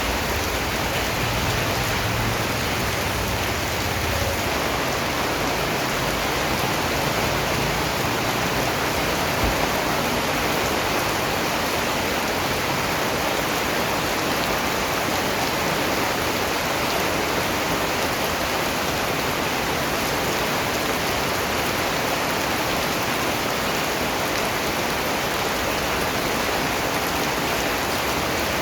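Steady rain falling on a surface: a dense, even hiss of many drops.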